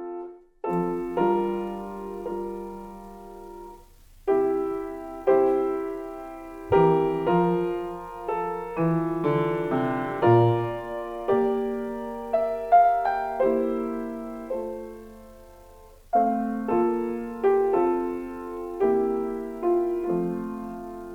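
Solo piano playing a slow passage of chords, each struck chord ringing and fading before the next; it stops briefly just after the start and softens around the middle before picking up again.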